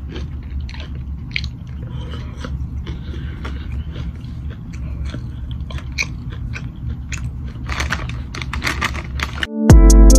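A person chewing and biting food close to the microphone, with many short crunches and mouth clicks. About nine and a half seconds in, loud electronic music with a beat cuts in suddenly.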